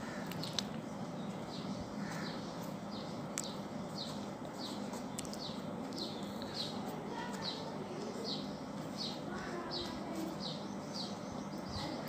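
A small bird chirping over and over: short, high, falling chirps about twice a second, over a steady low hum.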